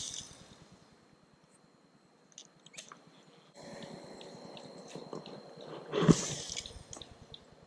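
Spinning fishing reel being cranked, a steady whir with light regular ticks, while a topwater lure is retrieved. About six seconds in comes a sudden loud noise, the loudest sound here.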